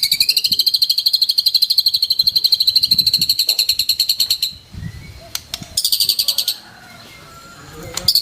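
White-rumped shama (murai batu) giving a rapid machine-gun trill of one high note repeated many times a second, the 'tembakan' burst. It runs for about four and a half seconds, breaks off, gives a shorter burst about six seconds in, and starts the trill again at the very end.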